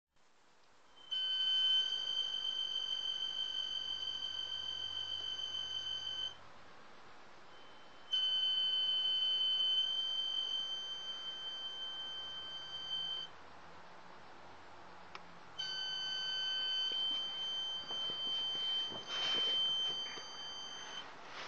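A steady high-pitched tone from the engine bay of a 2012 BMW 535 with the engine shut off. It sounds three times, each lasting about five seconds with short pauses between, and there is a brief rustle near the end.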